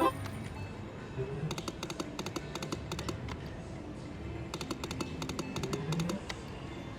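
Best Bet Lightning Link slot machine's rapid clicking sound effects in two bursts as the reels spin, over casino background murmur and faint machine tones.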